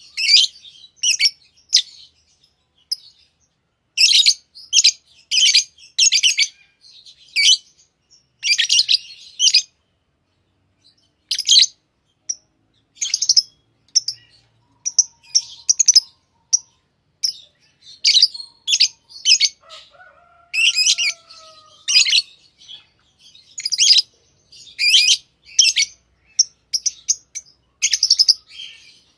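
Pet lovebirds chirping: clusters of quick, shrill, high chirps with short pauses between them, and one fainter, lower falling whistle about two-thirds of the way through.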